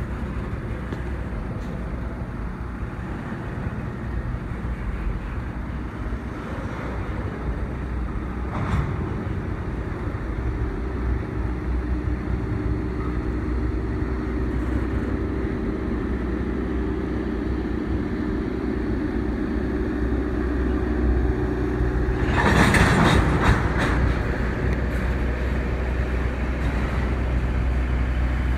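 Train running by with a steady, low engine drone that grows slowly louder, and a brief burst of harsher noise about 22 seconds in.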